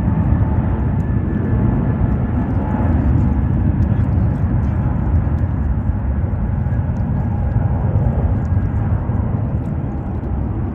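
Jet airliner engines making a loud, steady, deep rumble with a faint whine riding above it.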